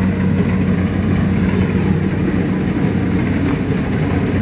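Heavy farm machine's engine running steadily: an even, low hum with no change in speed.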